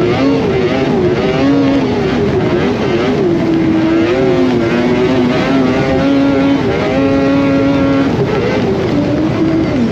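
Polaris Indy 600 two-stroke snowmobile engine running under way, its pitch rising and falling constantly with the throttle, held steady for about a second about two-thirds of the way through.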